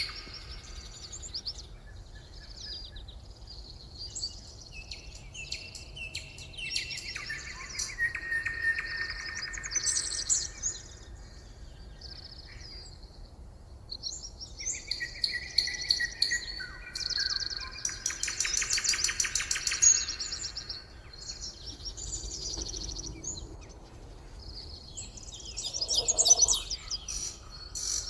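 Songbirds chirping and singing, several calls and rapid trills overlapping one after another, with a lower, louder call near the end. A faint low rumble runs underneath.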